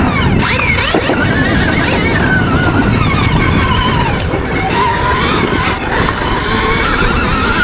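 Stark Varg electric motocross bike riding, its electric motor whining in a tone that rises and falls with speed, over a loud, rough low rumble.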